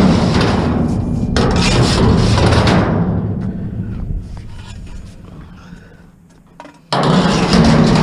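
Loose scrap metal being thrown onto a load, crashing and rattling loudly, each crash dying away over a couple of seconds; another loud crash comes near the end.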